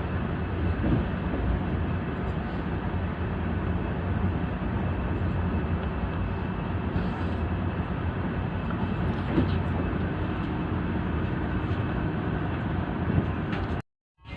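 Steady running noise of an express train on the move, heard from inside a third-AC coach, with a few brief knocks; the sound cuts out suddenly just before the end.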